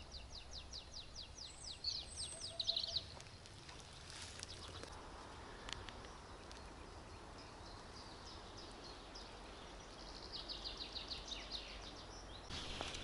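A songbird singing in the woods: a fast run of repeated high notes for the first few seconds, then a second, similar song about ten seconds in. A few faint clicks fall in the quiet between the songs.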